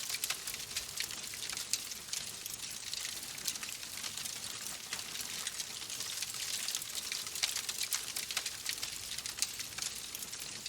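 Wood fire crackling in a fireplace: a dense, irregular run of small pops and snaps over a steady hiss.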